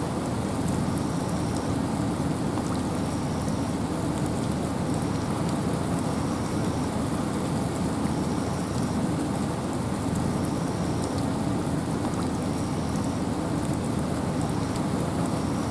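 Steady rain and wind in a forest: a dense, even hiss with most of its weight in a low rumble. A faint short high note repeats about every one and a half seconds.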